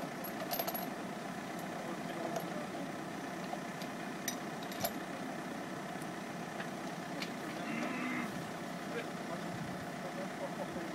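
A vehicle engine idling steadily, with a couple of sharp clicks about four and five seconds in.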